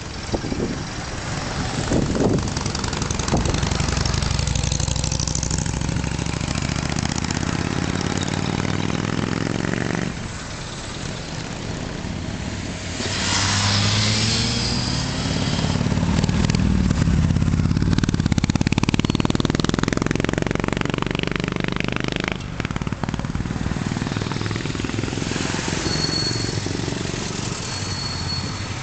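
Engines of several 1920s–1930s vintage cars running as they drive past one after another. Their pitch rises as they pull away, the longest climb running from about halfway through to near the end.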